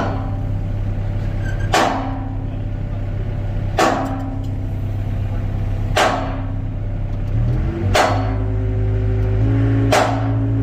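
Excavator's diesel engine running steadily, its pitch rising as it revs up about seven and a half seconds in. A sharp knock sounds about every two seconds over it.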